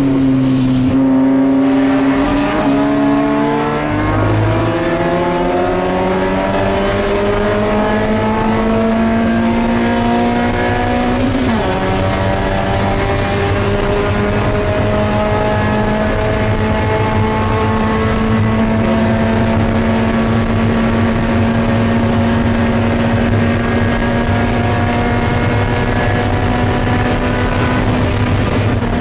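Mazda MX-5 Spec Miata race car's four-cylinder engine heard from inside the cabin while racing. The revs climb steadily for about ten seconds and drop sharply at an upshift. They then hold nearly steady, easing slightly near the end.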